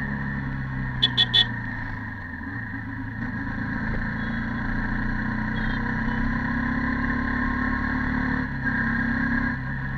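Stock Yamaha YZF-R15 V2.0's 150 cc single-cylinder four-stroke engine running under way, its note dipping a couple of seconds in, then climbing and changing pitch again near the end. Three quick high beeps sound about a second in.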